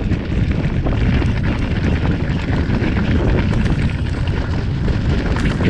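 Wind buffeting a chest-mounted action camera's microphone on a fast downhill mountain-bike descent, mixed with tyre noise and a steady chatter of small rattles from the bike over rough trail.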